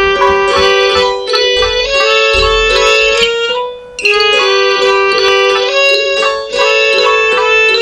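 Computer-generated MIDI music: many short synthesized notes in quick succession, mostly in a fairly high register, with a brief break about four seconds in.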